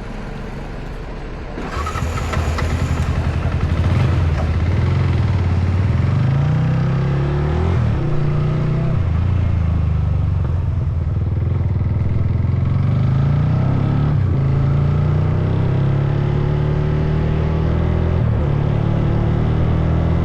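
Motorcycle engine running on the move, getting louder about two seconds in, then a steady loud drone whose pitch shifts up and down with throttle and gear changes.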